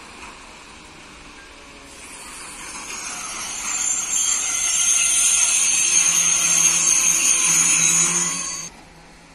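Train passing close by: a hissing rush of wheel and rail noise that builds over a couple of seconds, holds loud, then cuts off suddenly near the end.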